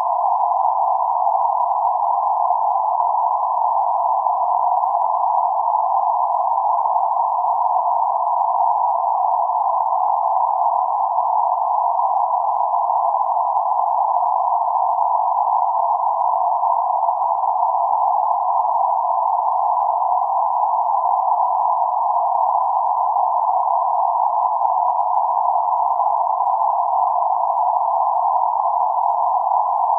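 Synthetic noise centred around 848 Hz: a steady, even hiss held to a narrow middle band, with no low rumble or high fizz, unchanging throughout.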